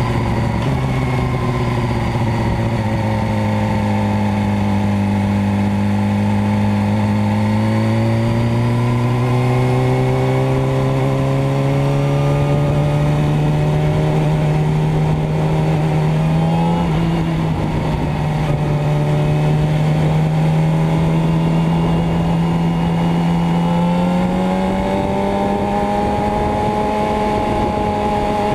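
Motorcycle engine running under way, its note sinking over the first few seconds, then slowly climbing, with a brief blip about two-thirds through and a step up in pitch near the end.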